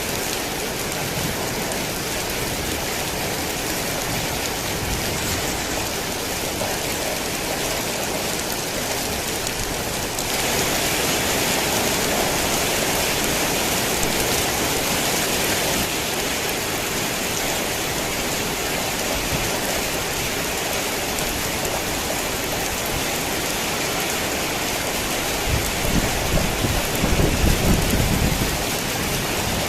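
Steady heavy rain, which grows heavier for about five seconds a third of the way in, with a low rumble of thunder rolling near the end.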